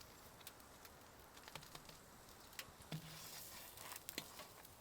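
Near silence with a few faint, scattered light ticks.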